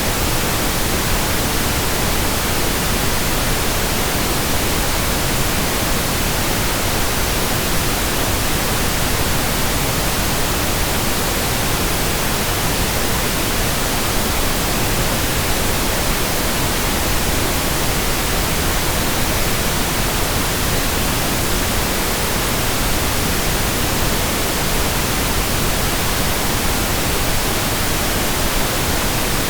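Steady, unbroken pink noise: an even hiss across the whole range, weighted toward the low end, with no changes or events.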